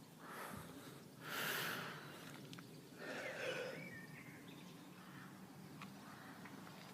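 Quiet outdoor background: a soft hiss with two brief swells of rushing noise, about a second and a half in and again about three seconds in.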